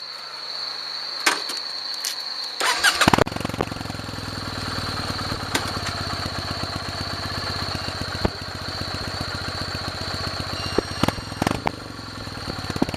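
Kawasaki W-series air-cooled parallel-twin motorcycle started on the electric starter: a couple of clicks, a brief crank about three seconds in, then the engine catches and settles into a steady idle through the exhaust.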